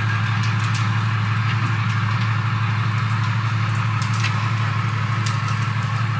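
A motor running steadily with a low, even hum, with a few light knocks and clicks over it.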